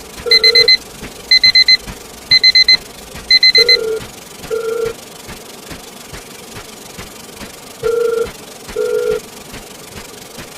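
Digital alarm-clock-style beeping: four groups of four quick high beeps about once a second, then four lower, longer single beeps spaced out after that, over a faint steady hiss.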